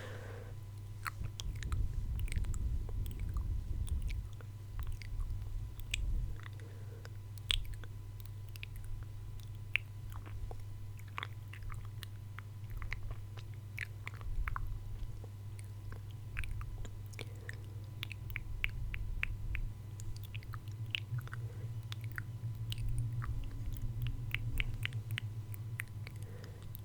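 Close-miked ASMR mouth sounds: many short wet clicks and smacks, coming thickest in the second half, over a steady low hum.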